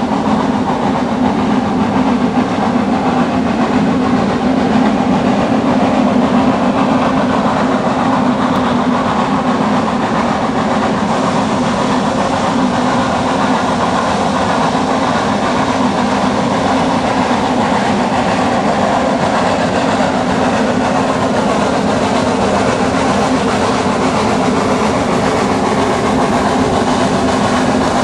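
Rack (cog) railway train running steadily, one unbroken noise with no pauses.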